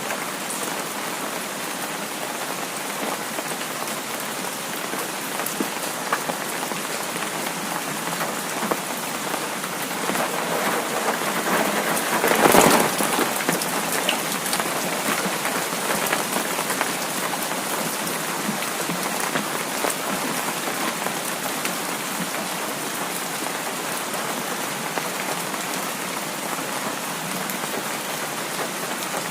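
Heavy rain falling steadily, with a short louder burst about halfway through.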